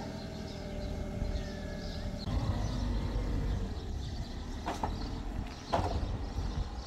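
A car engine running with a steady low rumble, and two sharp knocks about a second apart near the end.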